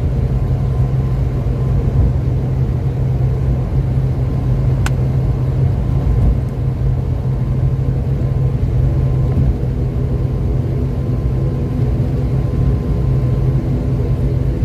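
ATR-72 twin turboprop engines and propellers droning steadily, heard from inside the passenger cabin, with a faint steady tone over the drone. A single brief click about five seconds in.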